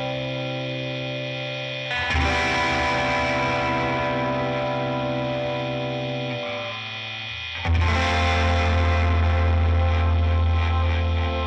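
Music: sustained distorted electric guitar chords with effects. A heavier, louder section with strong bass comes in about two seconds in, and again near the end after a brief dip.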